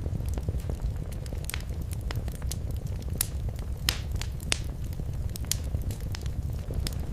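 Wood fire in a fireplace crackling, with a steady low rumble of flames under irregular sharp pops, a few louder snaps near the middle.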